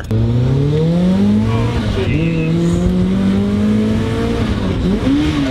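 Rotrex-supercharged four-cylinder engine of a 1997 Mazda Miata accelerating hard, heard from inside the cabin. Its pitch rises quickly, drops at an upshift about one and a half seconds in, then climbs steadily again until another shift about four and a half seconds in.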